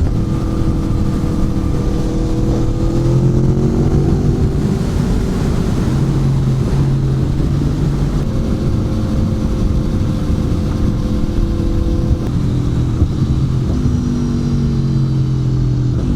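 Aprilia Tuono V4 Factory's V4 engine, exhaust baffle removed, running on the move. Its pitch holds steady for stretches and then falls and rises again several times as the throttle and gears change.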